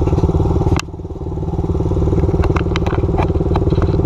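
Dirt bike engine idling steadily, with one sharp knock about a second in and a scatter of light clicks and clatter close by in the second half.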